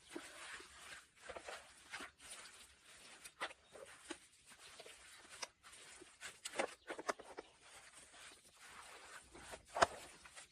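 Dry grass and clay being mixed by hand on a tarp: faint, irregular rustling and scraping with scattered crackles, and one sharper crackle near the end.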